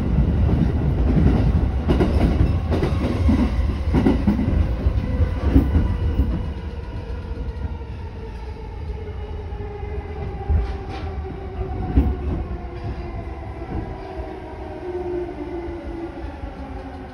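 Inside a 209 series 500 electric commuter train running on the rails. For the first six seconds or so there is a loud rumble with scattered knocks from the wheels. It then grows quieter as the motor whine falls steadily in pitch and the train slows.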